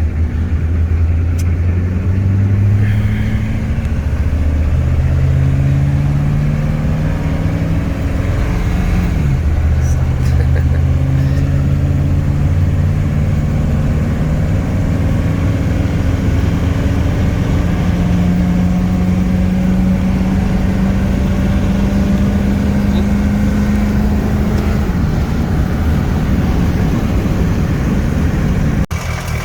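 The 6.2L diesel V8 of a 1985 GMC C30 pulling under load on the road. Its pitch climbs, drops at a gear change, and climbs again several times as the truck shifts up through the gears, then holds nearly steady.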